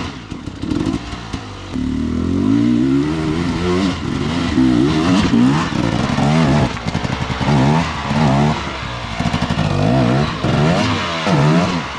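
Dirt bike engine revving as it rides a trail, its pitch climbing and dropping back again and again, roughly once a second, as the throttle is worked on and off.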